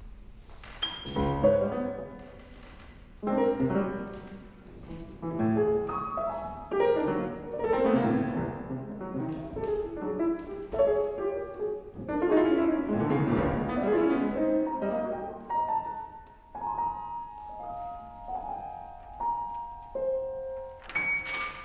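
Contemporary chamber music for piano trio, with the piano to the fore: loud, jagged chords and clusters struck in irregular bursts. From about three-quarters of the way in, the playing thins out to held high notes.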